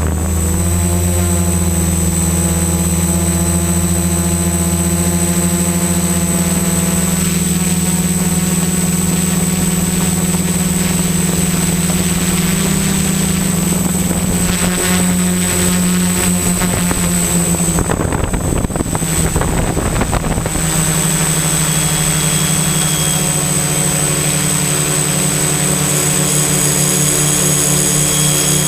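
XAircraft X650 Pro V4 quadcopter's electric motors and propellers humming steadily in flight, with a high whine above the hum. About two-thirds of the way through there is a rush of noise for a couple of seconds, after which the hum carries on at a slightly changed pitch.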